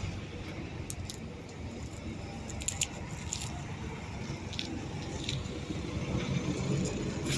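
Steady low rumble of road traffic at a bus stop, with scattered small, sharp clicks and crackles at irregular intervals.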